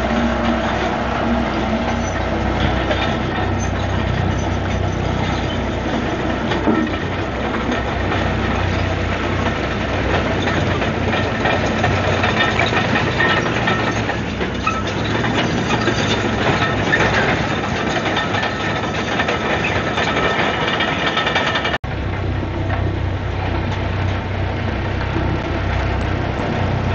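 Komatsu D155AX-7 crawler bulldozer's diesel engine running steadily while the machine works, with dense metallic clatter from its steel tracks. The sound breaks off for an instant about 22 seconds in, then carries on with a deeper engine note.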